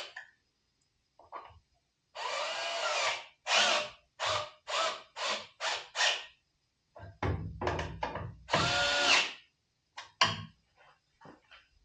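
Cordless drill/driver running in repeated trigger pulls, one run of about a second and then a string of short half-second pulls, typical of driving screws in.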